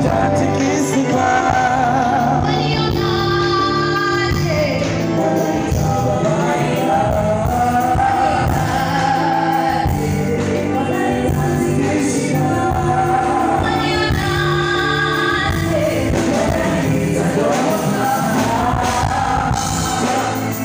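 A live band playing a song with sung vocals, several voices at times, run through at a sound check.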